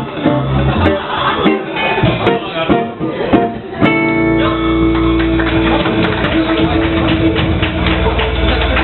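Live acoustic band music led by a strummed and plucked guitar. About four seconds in, the busy playing gives way to long held notes.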